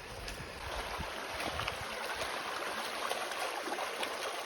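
Creek water rushing and burbling over rocks, a steady wash that grows louder about a second and a half in as it comes closer.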